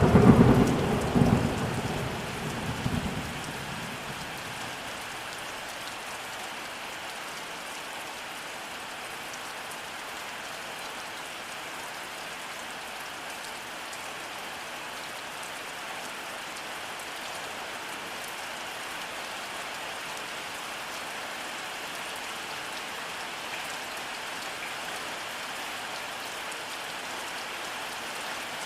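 Thunderclap rumbling loudly at the start, then fading away over about three seconds, leaving steady rainfall.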